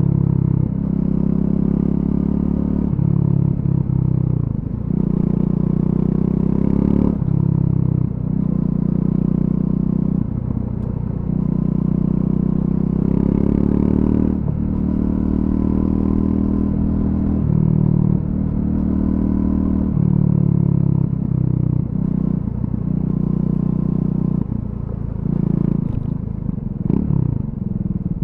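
Triumph Scrambler 400X's single-cylinder engine through its stock exhaust, ridden on gravel: the engine note climbs and falls over and over, stepping abruptly as the throttle is opened and closed. Clatter and scraping from the loose surface runs underneath.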